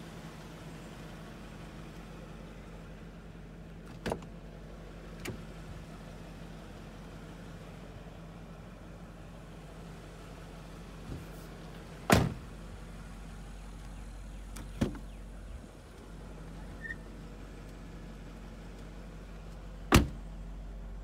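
BMW E39 540i's 4.4-litre V8 idling steadily, with several sharp clunks from the car's doors, the loudest about twelve seconds in and near the end.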